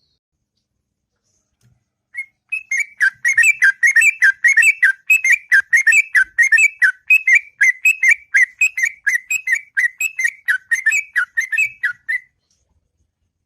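Yellow-vented bulbul (trucukan) singing a long, unbroken run of rapid whistled notes that starts about two seconds in and stops about a second before the end.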